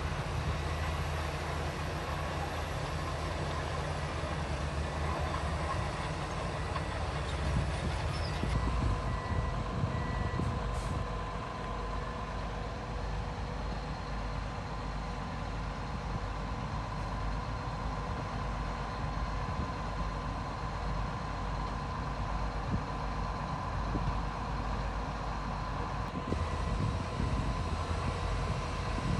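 Bulldozer's diesel engine running steadily under load, a constant low rumble, with a thin steady whine that comes in about nine seconds in.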